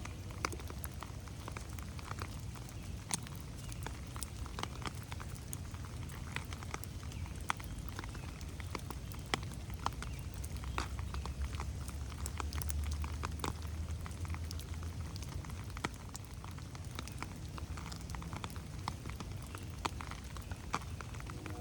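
Rain falling in a forest, with many separate drops pattering on leaves and ground over a steady hiss. A low rumble underneath swells about halfway through and then eases.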